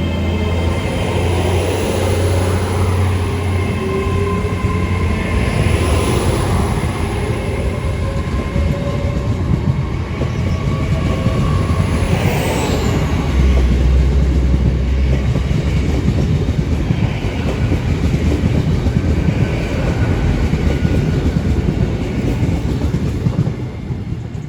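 Intercity Express Train pulling out under diesel power, its underfloor engines running under load and its wheels clicking over the rail joints. A high whine is heard throughout and falls away about 12 seconds in.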